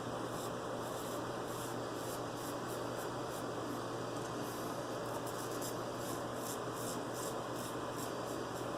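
Razor blade scraping across lathered stubble in a rapid series of short strokes, two or three a second.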